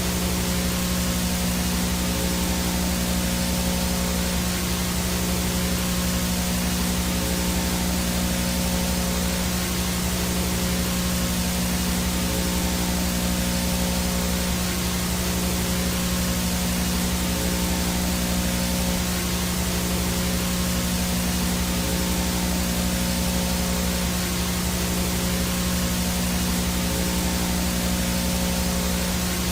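Analog video static from a VHS signal with no picture: a steady hiss across the whole range, with a steady low hum and a thin high-pitched tone running under it.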